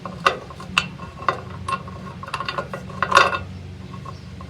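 Metal hitch hardware (bolt, washers, nut) clinking and tapping as it is handled and fitted, in irregular sharp clinks, the loudest about three seconds in, over a steady low hum.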